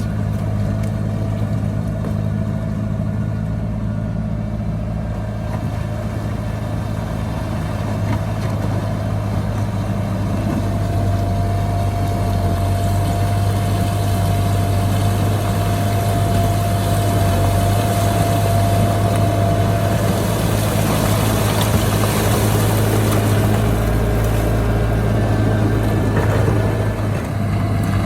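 Heavy diesel engine of a bulldozer running steadily with a deep drone, getting a little louder from about ten seconds in.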